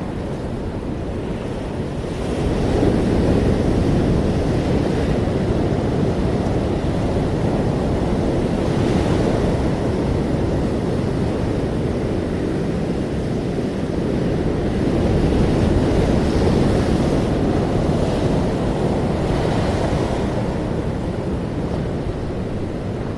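Ocean waves breaking and washing on a shore, a continuous rumbling surf that swells twice, about two seconds in and again past the middle, with wind on the microphone.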